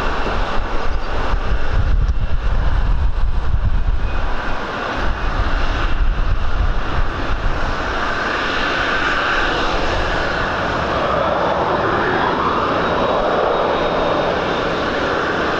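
Airliner engines running as an aircraft passes, growing louder about halfway through, with gusts of wind buffeting the microphone.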